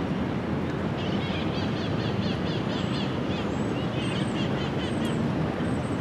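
A bird chirping a rapid run of short repeated notes, about four a second, starting about a second in and stopping near the five-second mark, over a steady low outdoor rumble.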